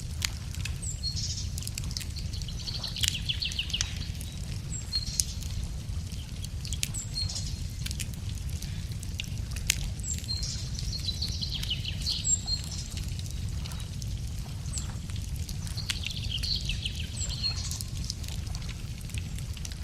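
Wood fire crackling with scattered sharp pops over a steady low rumble, while a songbird repeats a short, high song phrase every few seconds.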